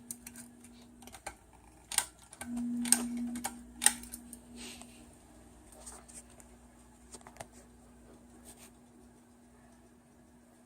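Hunter Passport ceiling fan motor humming steadily, with a few sharp clicks and knocks about two to four seconds in while the hum briefly grows louder, then a few faint ticks.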